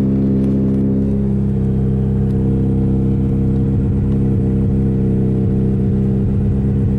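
Lotus Esprit engine idling steadily on choke just after a cold start, heard from inside the cabin.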